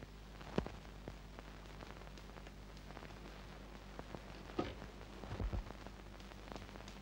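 Quiet room tone with a steady low hum, broken by a few faint clicks and soft knocks: a sharp click about half a second in, another near the middle, and a couple of low thumps a little later.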